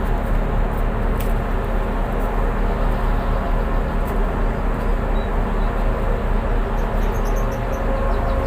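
Tugboat diesel engines running steadily with a loud, even drone and a low hum.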